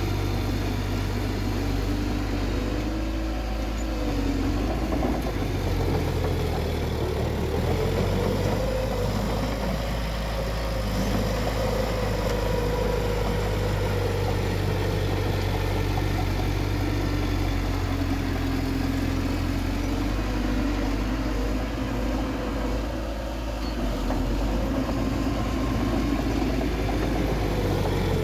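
Bulldozer's diesel engine running steadily, its pitch slowly rising and falling as the load changes.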